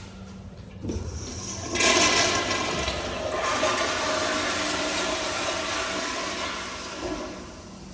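A toilet flushing: a short click about a second in, then a loud rush of water that starts about two seconds in, runs for about five seconds and tapers off near the end.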